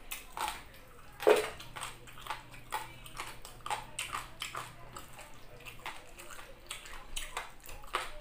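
Close-up eating sounds of chicken drumstick and rice: wet chewing and lip smacks, one or two a second, with a louder smack about a second in.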